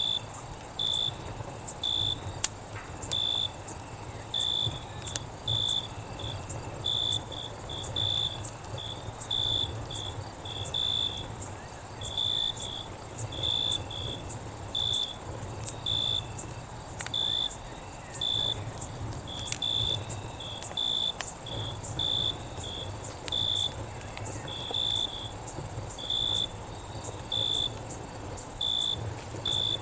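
Summer night insect chorus: a steady high cicada buzz with crickets chirping about once a second, unevenly. Small sharp pops and crackles from a campfire are scattered through it over a low rumble.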